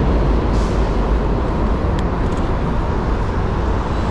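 Steady rumble of wind and city road traffic heard from a moving bicycle.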